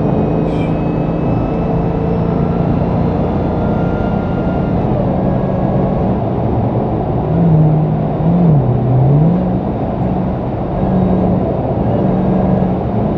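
Dodge Hellcat's supercharged 6.2-litre V8 running under way with road noise. The engine note holds mostly steady, then dips and climbs back a couple of times a little past the middle.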